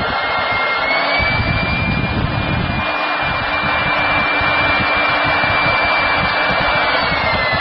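Hougen magnetic-base drill running with a loud, steady motor whine as it bores through 1/4-inch steel plate. The whine steps up slightly in pitch about a second in and drops again near the end.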